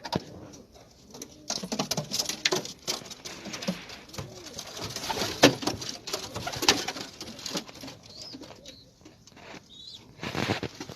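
Domestic pigeons cooing, mixed with many sharp clicks and clattering knocks, the loudest about five and a half seconds in.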